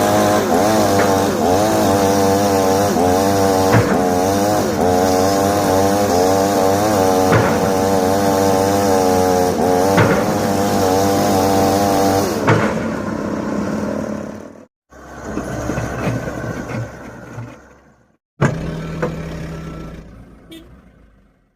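Excavator's diesel engine working under hydraulic load, its pitch wavering up and down over and over, with a few sharp knocks. After about 12 seconds the sound turns rougher and breaks off abruptly several times.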